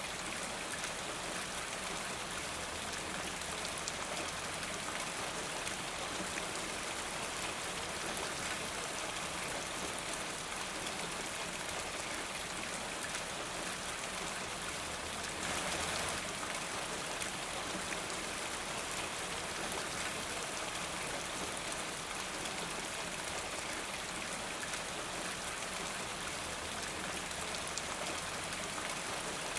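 Steady rain falling, with fine individual drops ticking through it and one brief louder swell about halfway through.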